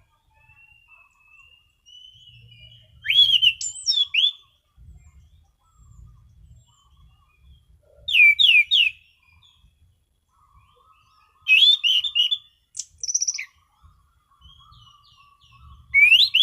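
Orange-sided thrush (anis cendana) singing in a relaxed, open 'ngeplong' style: four loud phrases of clear, quickly sliding whistles a few seconds apart, with softer twittering in between.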